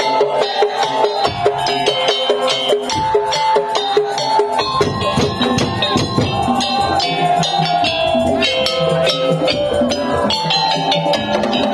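Madurese daul (tong-tong) ensemble playing: quick, dense wooden percussion and drums under a melody of held pitched notes, the bass filling in about halfway through.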